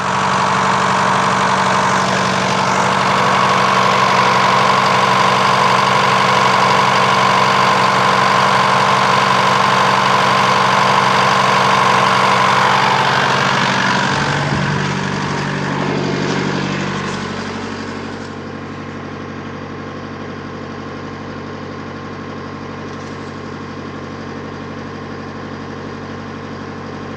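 2009 Holden Colorado's 3.0-litre turbo-diesel engine idling steadily. Between about fourteen and eighteen seconds in the note shifts and the sound drops, then it carries on at a quieter, even idle.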